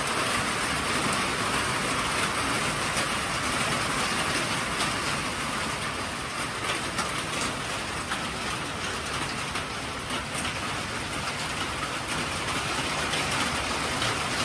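Rain falling steadily on a wooden deck and porch roof: an even hiss with many scattered drop ticks.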